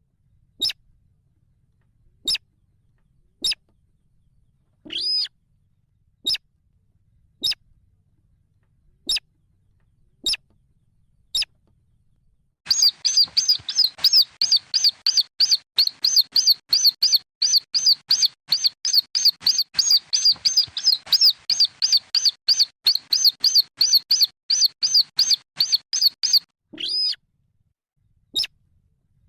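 Recorded calls of sintar (weris) rail chicks: short high peeps about once a second. A little under halfway in they break into a fast run of peeps, about four a second, which stops shortly before the end.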